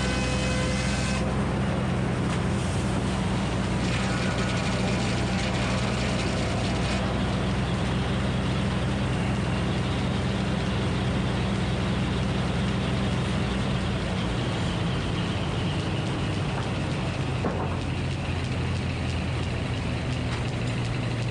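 Minneapolis Moline HEB 605 cubic inch engine running steadily, driving a Frick circular sawmill, with a broad mechanical hiss over the engine's low drone. About a second in, a higher steady whine drops out. Near the end there is a single knock.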